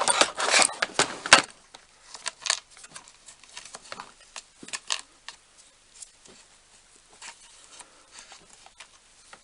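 Small rotary-tool collets and accessories being handled, clicking and rattling against each other: a dense run of clicks in the first second and a half, then scattered lighter clicks.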